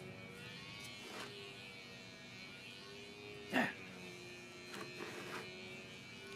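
Faint steady buzz, with a single short sharp cutting sound about three and a half seconds in as a length of carbon fibre tow is cut off, and a couple of fainter handling clicks around it.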